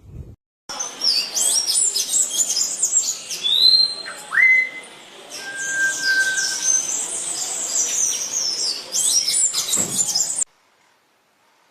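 Songbirds chirping and whistling in a busy chorus of many quick high notes, with a few longer whistled notes mixed in. The chorus starts just under a second in and cuts off suddenly near the end.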